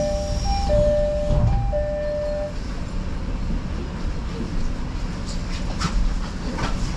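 Odakyu Line electric commuter train running with a steady low rumble. For the first two and a half seconds a two-tone electronic chime alternates low and high notes. A few sharp clicks come near the end.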